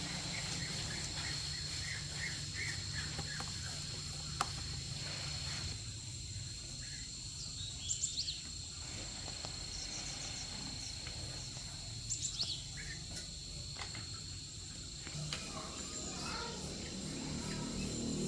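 Steady high-pitched insect calls, with a few short bird chirps about eight and twelve seconds in.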